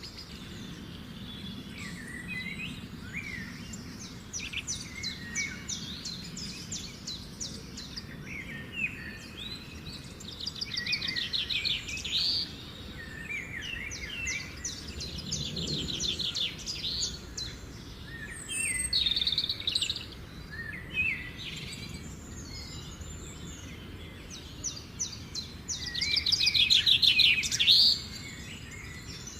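Songbirds singing in repeated phrases of rapid high trills and short gliding whistles over a steady low background rumble, the loudest trill a little before the end.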